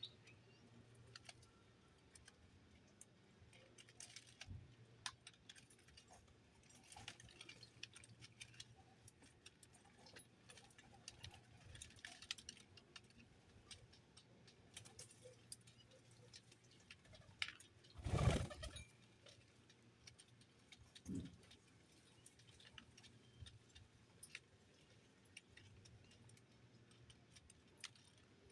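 Faint, scattered light taps and clicks of small pet birds moving and pecking about, with one louder knock and rustle about eighteen seconds in and a smaller knock about three seconds later.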